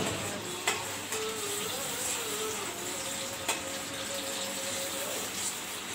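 Ginger-garlic paste frying in hot oil in an aluminium karahi, a steady sizzling hiss, with a few light clinks of a metal slotted spoon against the pan as it is stirred.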